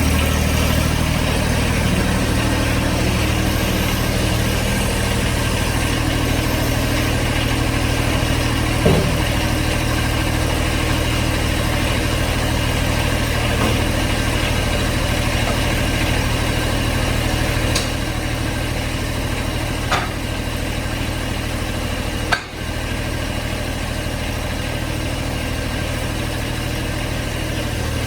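John Deere 1025R compact tractor's three-cylinder diesel engine idling steadily, with a few short clicks and knocks from work on the machine.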